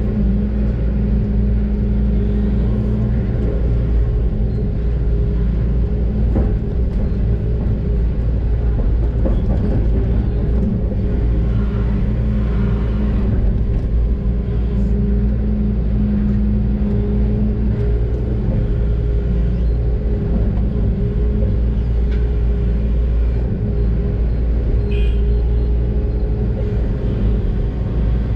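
Doosan DX600 excavator's diesel engine running with a steady, loud drone and low rumble, heard from the cab, with a few faint knocks.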